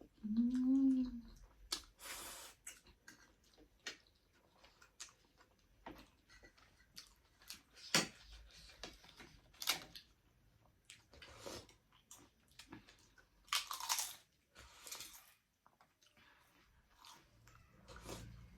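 Close-up eating sounds: chewing, mouth smacks and slurps of spicy instant noodles and chicken momo, coming in irregular bursts. A brief hum at the very start.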